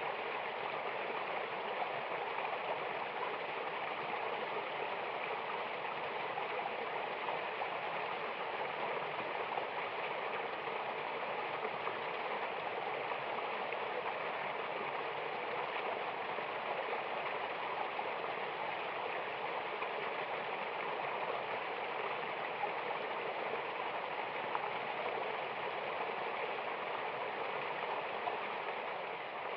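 Mountain waterfall, water rushing and splashing steadily in an even hiss without pauses.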